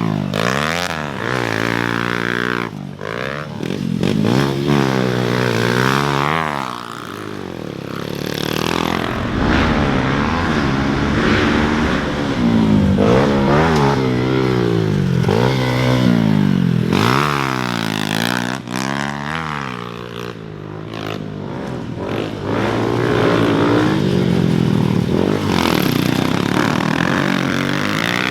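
Dirt bike engines on a motocross track, revving up and backing off again and again as the bikes accelerate and shift, the pitch climbing and falling many times and the sound growing louder and softer as they come and go.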